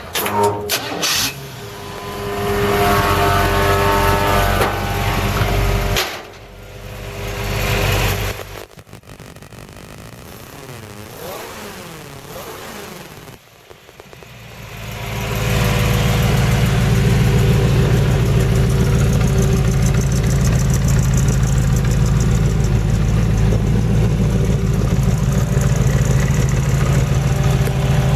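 Engine of a 1935 Ford pickup rat rod, revving unevenly for the first several seconds, quieter for a while, then settling about halfway through into a steady idle that carries on.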